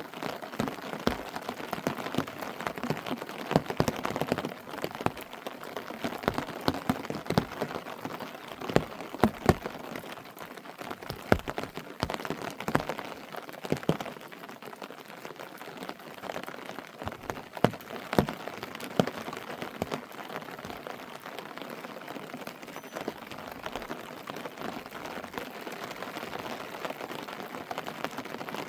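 Rain falling, with many irregular sharp drops striking a surface over a steady hiss; the drop hits are loudest and most frequent in the first half.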